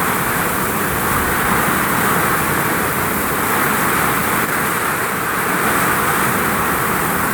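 Heavy rain pouring onto a vinyl roof, a loud, steady wash of noise without letup.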